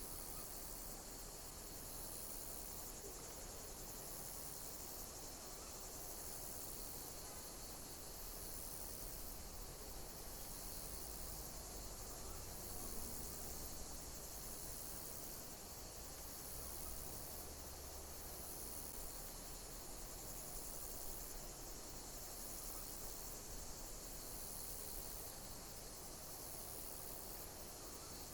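Insects chirping: a steady high-pitched trill, with a pulsing call that repeats about every two seconds.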